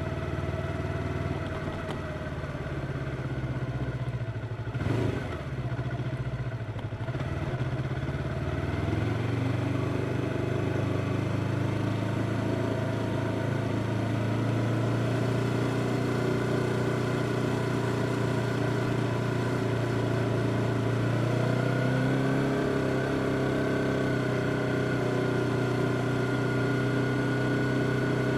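Yamaha R25's parallel-twin engine running under way, its revs climbing about nine seconds in and then holding steady, with a slight further rise near the end. A short burst of noise comes about five seconds in.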